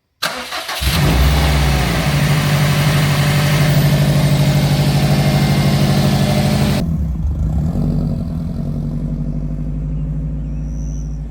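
The freshly rebuilt 2019 Subaru STI's turbocharged flat-four engine cranks briefly, catches, and runs at a loud, steady fast idle. About seven seconds in it drops to a quieter, lower idle.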